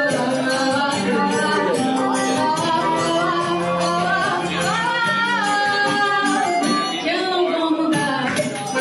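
Live band music with singing: a song played by a small band with a lead voice over it.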